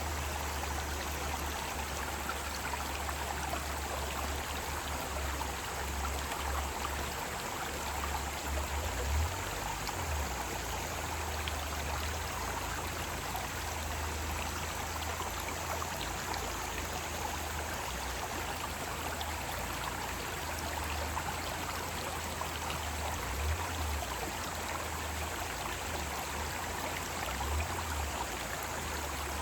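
Mountain stream flowing steadily over rocks, an even rush of water with small swells.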